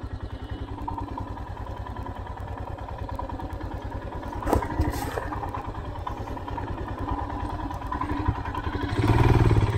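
Royal Enfield Himalayan's single-cylinder engine idling with an even, rapid thump of firing pulses. There is a brief clatter about four and a half seconds in, and the engine gets louder near the end.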